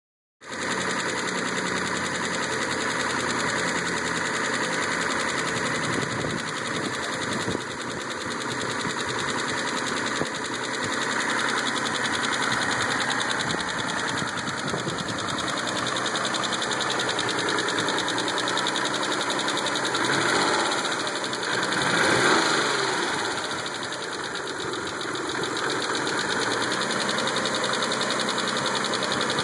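Mitsubishi 3000GT's 3.0-litre V6 idling with a ticking from the valvetrain, which the owner takes for lifter tick. The level rises briefly about twenty to twenty-three seconds in.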